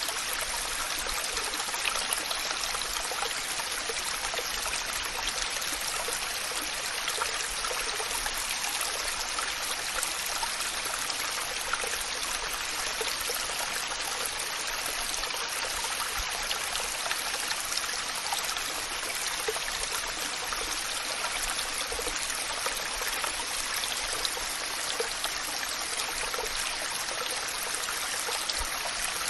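Waterfall: steady rushing, splashing water with no change throughout.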